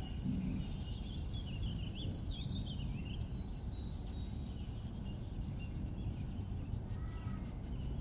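Birds chirping and twittering in the background in a few short phrases of quick high notes, over a steady low background rumble.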